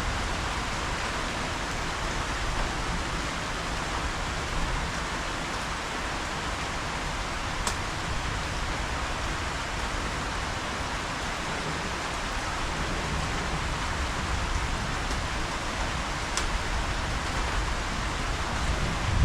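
Steady rain, an even hiss throughout with a low rumble fading out just after the start.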